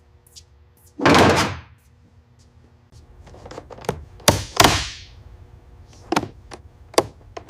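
A heavy clunk about a second in, then a run of sharp knocks and clicks from about three and a half seconds on, like parts being handled on a car in a workshop.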